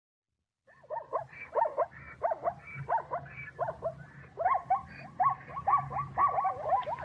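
A dog giving a long run of short, high yelps. They start about a second in and come quicker toward the end.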